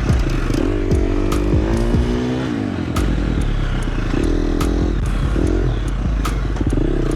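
Dirt bike engine revving up and easing off several times over rough trail, its pitch rising and falling, with scattered sharp clicks and clatter of debris striking the bike.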